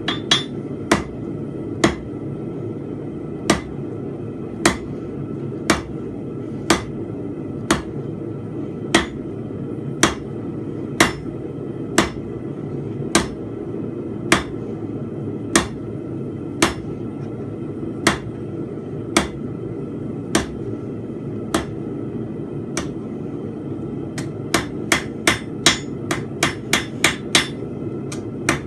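Blacksmith's hammer striking a hot steel bar on an anvil while forging a fence peg: single blows about once a second, quickening to rapid blows about three a second near the end. A steady low rushing noise runs underneath.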